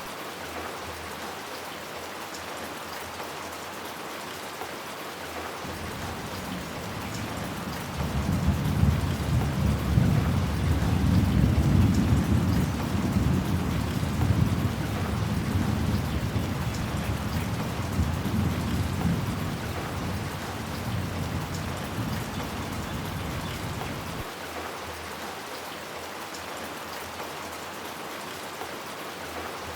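Steady rain falling, with a long roll of thunder that begins about six seconds in, swells suddenly, peaks around the middle and rumbles away over the next dozen seconds.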